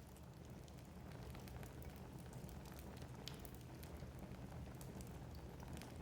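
Wood fire crackling in a fireplace: many small snaps over a low steady rumble, with one sharper pop about three seconds in.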